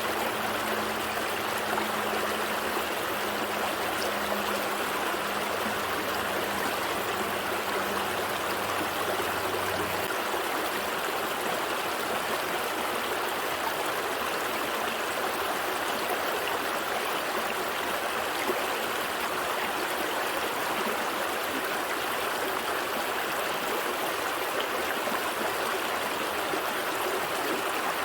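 Gentle stream flowing steadily, an even rush of running water. A faint low hum sits underneath it and stops about ten seconds in.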